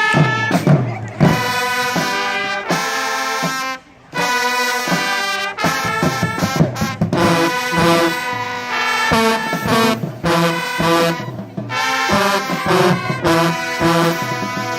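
High school band playing, led by brass, with trombones and trumpets prominent, in detached phrases with a short break about four seconds in.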